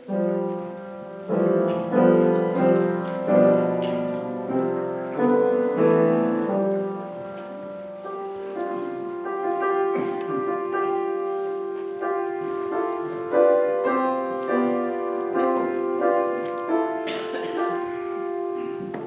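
Piano playing slow, sustained chords, hymn-like communion music.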